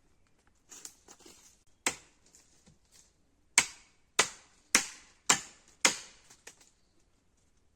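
Sharp blows of a tool striking wood: a single strike about two seconds in, then a steady run of five strong blows about half a second apart, with light rustling before them.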